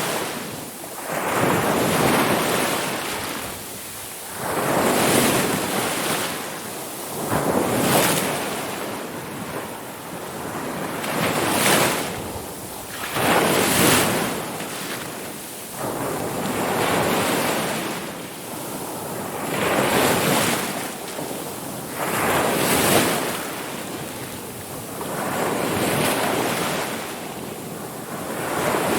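Ocean waves rolling in and washing back, a surge of surf about every three seconds.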